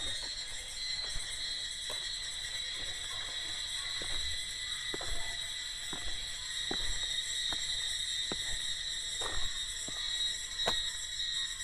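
Steady, high-pitched chorus of insects droning in forest. About a dozen short, soft knocks are scattered irregularly through it.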